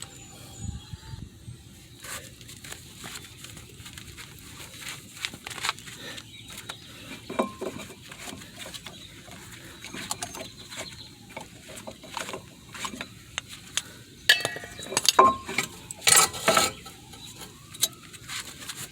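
Hand tools clicking and clinking against metal brake parts while the caliper is worked on, with scattered sharp clicks that cluster more loudly near the end.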